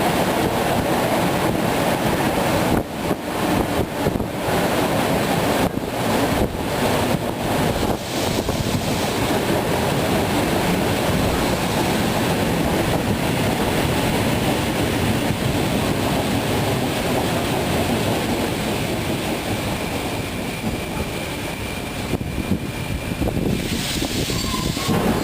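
ER2R electric multiple unit running along the line: a steady, loud noise of wheels on the rails and rushing air, with a few brief dips in the first few seconds.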